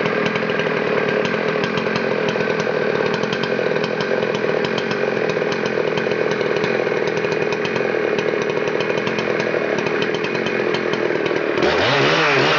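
Husqvarna 281 two-stroke chainsaw running steadily at high speed, then, about eleven and a half seconds in, its pitch swings up and down as the throttle changes.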